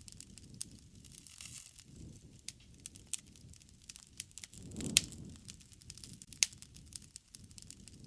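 Wood fire crackling, with frequent sharp pops and snaps over a soft low rumble of flames. The loudest pop comes about five seconds in, together with a brief swell of flame noise, and another sharp pop follows about a second and a half later.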